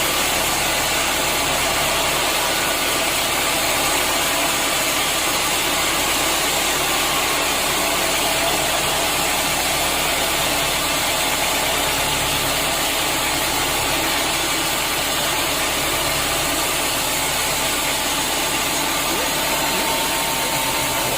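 Sawmill machinery running steadily: a constant mechanical noise that does not pause or change.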